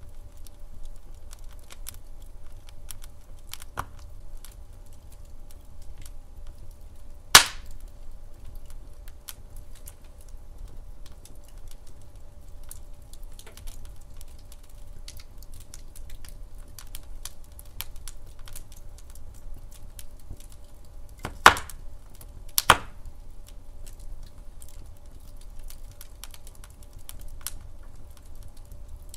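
Wood fire crackling in a fireplace: a steady run of small irregular snaps. Three louder pops stand out, one about a quarter of the way in and two a second apart about three quarters of the way in.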